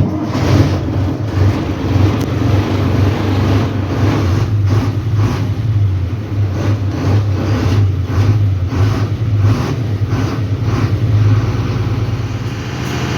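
Diesel truck engine running at close range, a loud, steady low rumble with slight rises and dips in revs.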